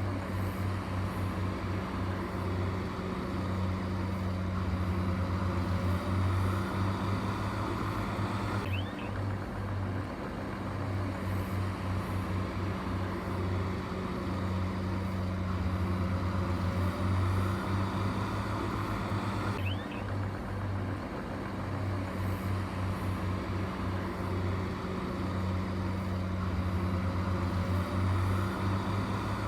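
Heavy construction machine's diesel engine running, a steady low drone with a fast pulsing beat, changing abruptly twice.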